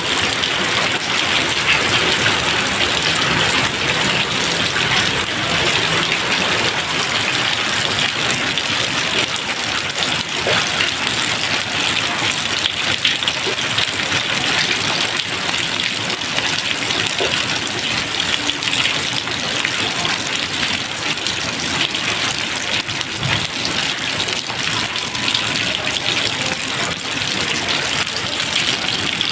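Steady rain falling as an even, unbroken hiss, with no thunder.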